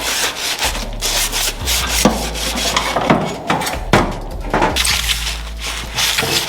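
Sandpaper rubbed back and forth by hand over metal parts, a run of irregular scratchy strokes, to smooth them before painting.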